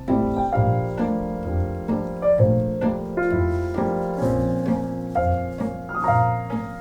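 Background music: piano playing a gentle melody over low bass notes, the notes struck in a steady rhythm and left to ring.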